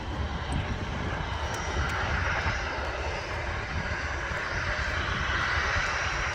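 Jet airliner engines running, a steady broad rush that builds slowly.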